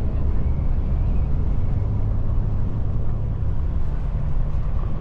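Steady low rumble of a tour bus's engine and tyres while driving, heard from inside the bus.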